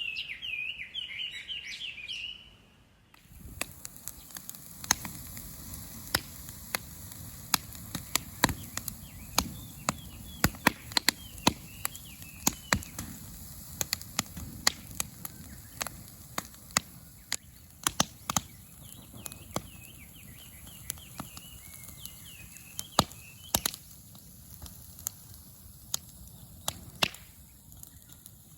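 A Chinese hwamei (gabichō) sings loudly for the first couple of seconds. After a cut, a wood campfire crackles, with dozens of sharp, irregular pops and snaps over a low rumble, and a bird warbles faintly now and then.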